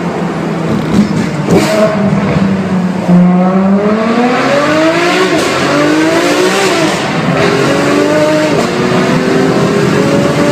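A car's engine and exhaust held at steady revs, then accelerating hard from about three seconds in, the pitch climbing and dropping back at each of several gear changes.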